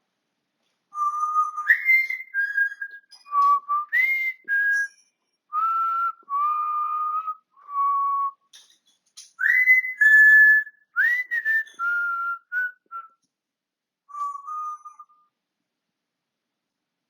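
African grey parrot whistling a string of clear, pure notes, some sliding quickly upward, in short phrases with brief pauses between them. It starts about a second in and stops a couple of seconds before the end.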